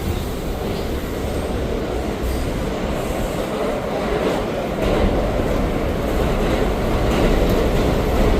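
R179 subway car running, heard from inside the car: a steady rumble of wheels on rail and running gear, getting a little louder about five seconds in.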